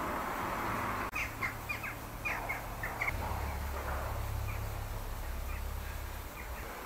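Birds calling: a quick series of short chirps about a second in, with a few fainter ones later, over a low steady background rumble.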